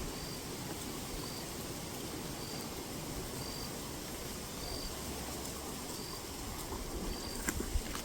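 Steady wind noise on an open riverbank, with a faint short high chirp repeating about once a second and a few light clicks near the end.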